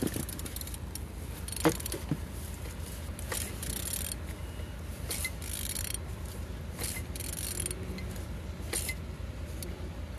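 A used 12J100 engine being turned over by hand: short metallic clicks and clatters come every second or two over a steady low hum.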